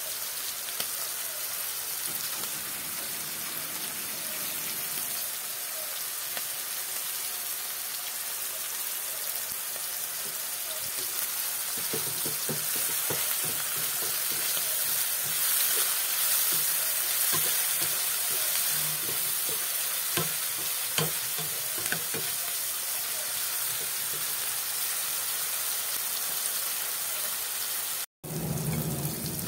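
Chopped vegetables sizzling steadily as they fry in a pan, with a wooden spatula stirring and clicking against the pan through the middle stretch. The sound cuts out for an instant near the end.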